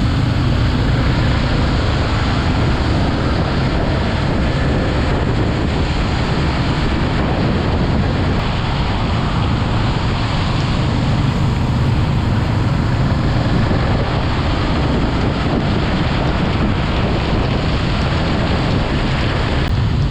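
Steady wind rushing over the microphone while riding, over the Yamaha MT-15's 155 cc single-cylinder engine running at a steady speed.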